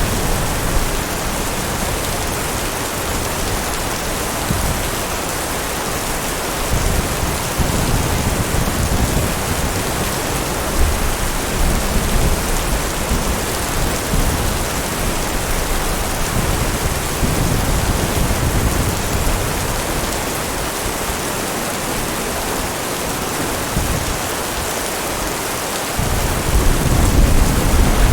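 Heavy rain falling steadily, with low rumbles of thunder that rise and fade several times, the strongest near the end.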